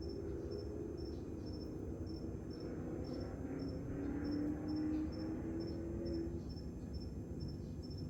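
Crickets chirping steadily in a regular rhythm, about two chirps a second. A low droning hum grows louder in the middle and fades out about six seconds in.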